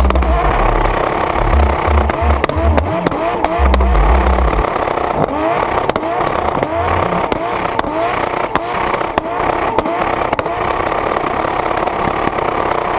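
A 2JZ-swapped Nissan Silvia drift car's engine revving hard again and again in short rising surges, with the tyres sliding, heard from a camera mounted on the car. Bass-heavy electronic music pulses underneath for the first few seconds.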